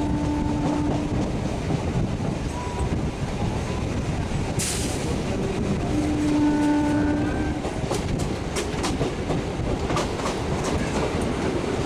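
Electric multiple-unit local train running at speed, heard from an open doorway as a steady rumble of wheels on track. A train horn sounds twice: briefly at the start and again for about a second and a half around six seconds in. Near the end the wheels click over rail joints and points.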